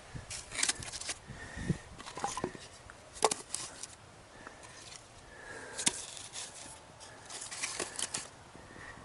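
Wood campfire crackling, with irregular sharp pops and snaps, some in quick clusters. The loudest pops come about a third of the way in and again past the middle.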